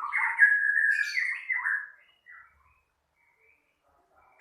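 White-rumped shama (murai batu) singing a quick run of gliding whistled notes for about two seconds, then falling quiet apart from one faint note. Its song carries a strange sound that the bird has picked up, an unwanted learned sound.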